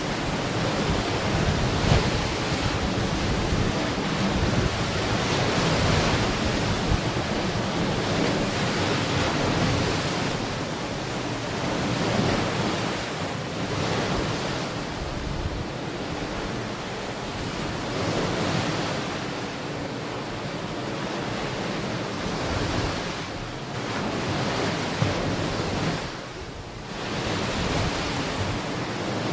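Ocean surf washing onto a beach: a continuous rushing noise that swells and eases every few seconds, with a brief lull near the end.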